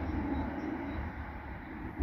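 Train running past in the station: a steady rumbling noise with some hiss, easing slightly near the end.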